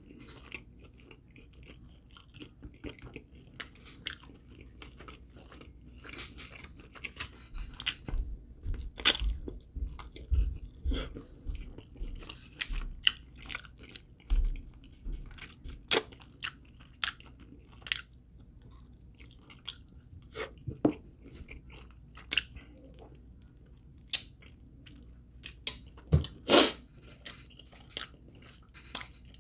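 Close-miked chewing and biting of fried chicken wings: irregular crisp crunches and wet mouth clicks, with a few dull low thuds around the middle.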